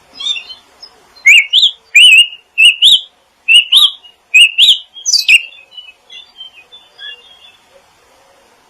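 Small songbird chirping: a quick run of about a dozen loud, sharp chirps, then softer twittering that dies away.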